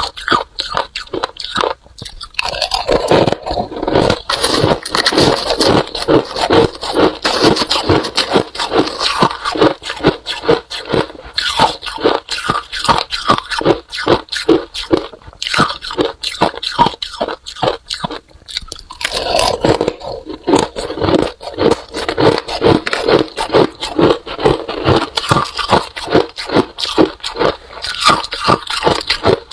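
Freezer frost being bitten and chewed: rapid, crunchy bite after bite, with a few short pauses.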